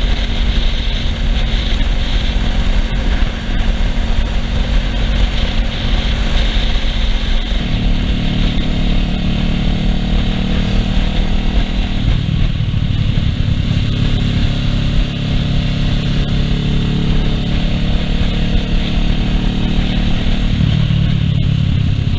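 Kawasaki Ninja 650R's parallel-twin engine running under way on the road, its note stepping up around 8 and 12 seconds and changing again near the end, over a steady rush of wind.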